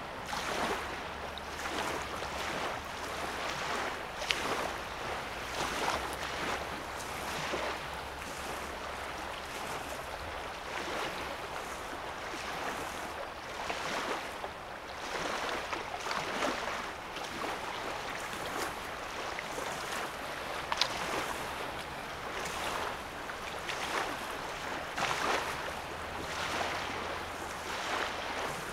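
Small waves on a calm lake lapping at the sandy shoreline, a soft wash swelling every second or two. There are two sharp little ticks, one about four seconds in and one about twenty seconds in. A faint low rumble runs underneath.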